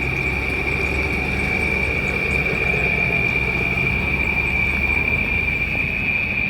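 Cicadas (chicharras) singing a steady, unbroken high buzz, with a low rumble underneath.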